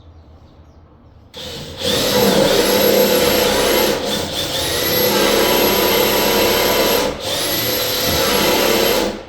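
Power drill with a 5/16-inch bit boring into a wooden door. It starts about a second and a half in and runs with a steady motor whine, easing off briefly twice, then stops just before the end.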